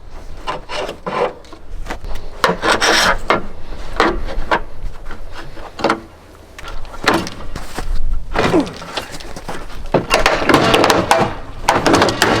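Irregular scraping, rubbing and knocking as lights are pried and pulled off an old truck's body, with a few brief squeaks near the end.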